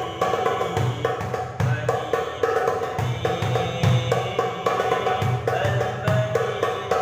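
Darbuka drumming: deep strokes recurring less than a second apart, with quick sharp taps between them, over a sustained melodic accompaniment.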